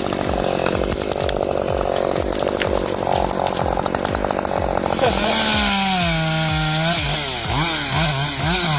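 Chainsaw running at high revs. About five seconds in, its engine note sags under load, then climbs and drops several times in quick succession as the throttle is blipped. A regular low thump sounds about three times a second throughout.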